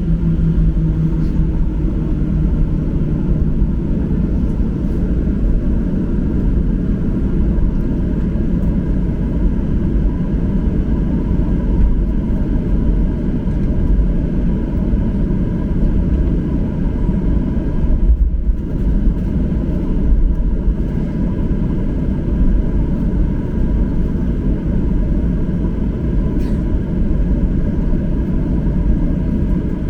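Cabin noise inside a Boeing 737-800 on the ground after landing: a steady low rumble from its CFM56 engines at idle and from the airframe, with a faint steady hum above it.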